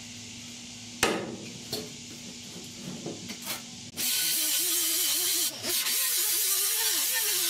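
A few light handling clicks, then about four seconds in a grinder starts grinding down the edges of a sheet-metal patch panel. It makes a loud, even hissing rush over a motor tone that wavers as the load changes.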